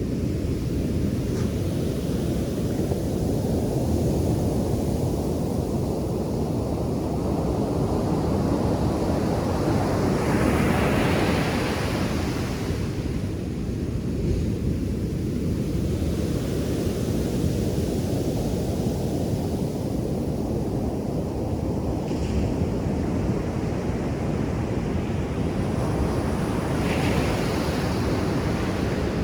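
Ocean surf on a beach: a continuous low rumble of breaking waves. One wave crashes louder and brighter about a third of the way in, and smaller ones break later.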